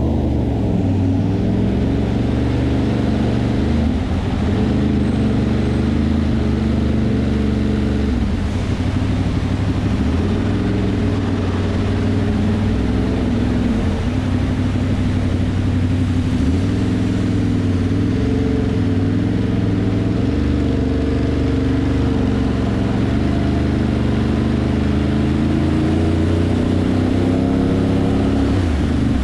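Ducati Monster's V-twin engine running under way, its revs rising and falling again and again through throttle changes, over a steady rush of wind and road noise.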